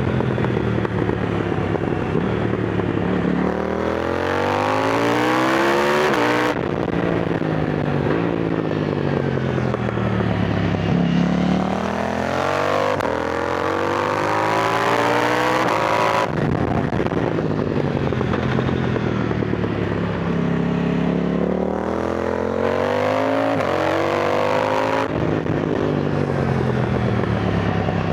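KTM Duke 990 motorcycle engine accelerating and easing off through bends. The pitch climbs through the revs and drops sharply at three gear changes, then falls and rises again between them.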